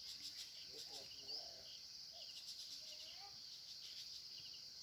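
Faint, steady, high-pitched chorus of insects such as crickets, with a few faint low calls in the background.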